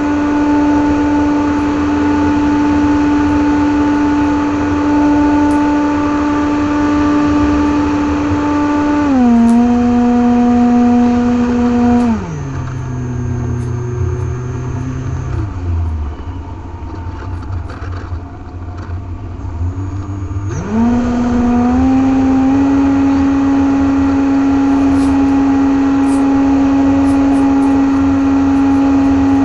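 RC airplane's 2200KV brushless motor driving a 6x4 propeller, heard from on board: a steady high whine that steps down in pitch about nine and twelve seconds in, throttle nearly cut for several seconds leaving only wind rumble, then rising back to full pitch about 21 seconds in.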